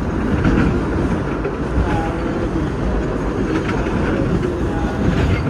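Vintage subway train running along the track, heard from inside its rear cab: a steady low rumble of wheels and running gear, with a few faint clicks from the rails.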